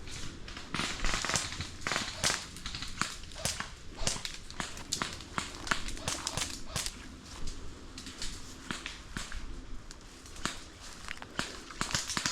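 Airsoft gunfire: a rapid, irregular string of sharp cracks and pops, several a second, some louder than the rest.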